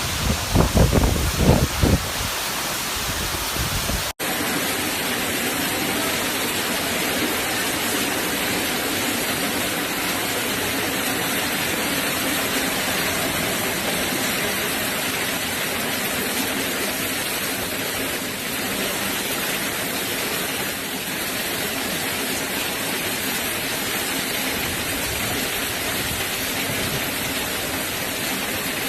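Heavy hurricane rain and wind, a steady hiss of downpour. Gusts buffet the microphone with low thumps in the first two seconds, and the sound drops out briefly about four seconds in.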